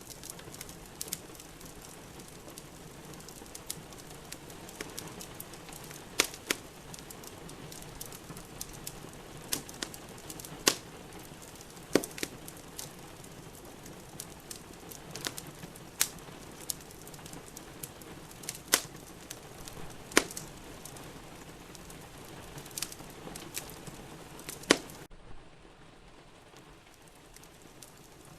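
Wood fire in a fireplace crackling, with sharp pops every second or two, over a steady hiss of rain. About 25 seconds in the steady hiss drops away abruptly, leaving a quieter background with only a faint pop or two.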